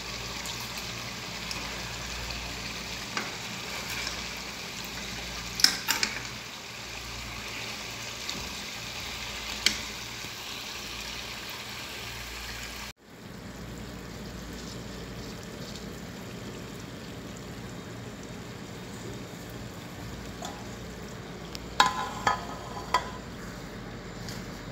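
Cauliflower and potatoes sizzling steadily in oil and water in an aluminium pot, with a stirring utensil knocking against the pot a few times.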